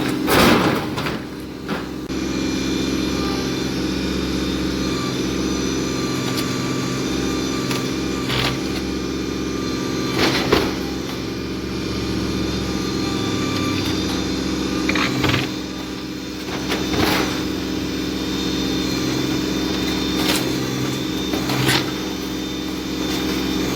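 Compact tractor's diesel engine running steadily, with a few sharp knocks and clanks now and then.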